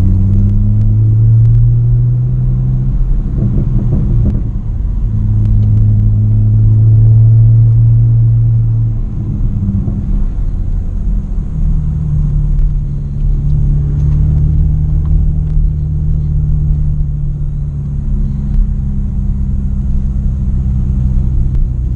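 Straight-piped BMW E90 exhaust drone while driving. It is a loud, low rumble that holds steady for long stretches and changes pitch a few times with the revs.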